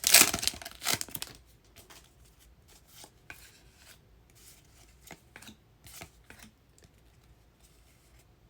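Foil trading-card pack wrapper crinkling and tearing for about the first second, then a quiet stretch of faint scattered clicks and rustles as the cards are handled.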